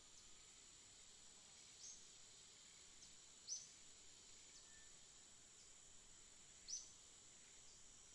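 Faint, short, high bird chirps, three clearer ones a few seconds apart with softer ones between, over a steady thin high-pitched background tone.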